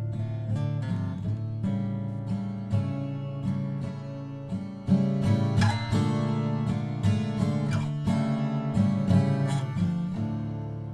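Seagull S12 Coastline 12-string acoustic guitar being played, a continuous run of picked notes and strummed chords.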